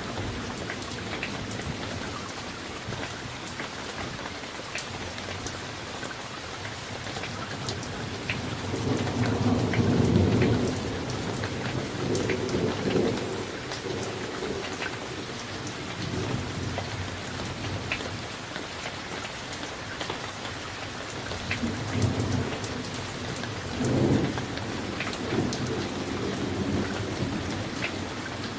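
Steady summer rain with many small drop hits, while thunder rolls in repeatedly. The loudest rumble comes about ten seconds in, with more swells near 13, 22 and 24 seconds.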